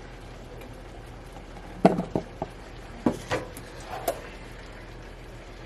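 A cluster of sharp clinks and knocks of utensils against a skillet as cooked shrimp are lifted out, over a low steady hum.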